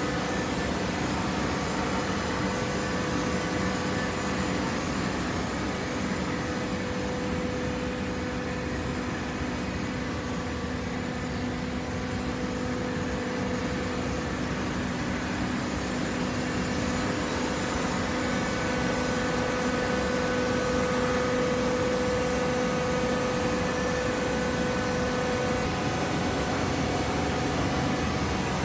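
A hydraulic cardboard baler's motor and pump running with a steady hum, a little louder in the second half.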